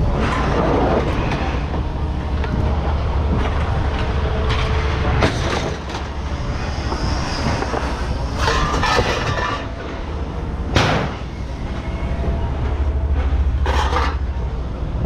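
Scrap metal clanking and banging as pieces are thrown out onto a pile, a handful of sharp metallic hits, the loudest about eleven seconds in, over a steady low engine rumble.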